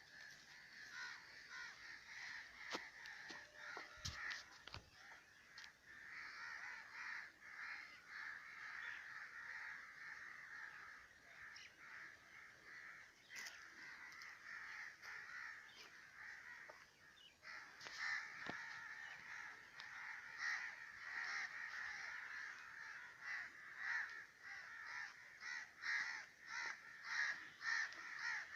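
A flock of birds calling together in a dense, harsh chattering chorus, with rapid repeated calls growing louder over the last ten seconds. A brief low thump comes about four seconds in.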